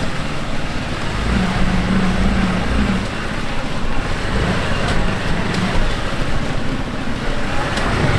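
Motor vehicle in motion, heard from on board: steady engine and road noise with some wind, the engine hum swelling for a second or so early on.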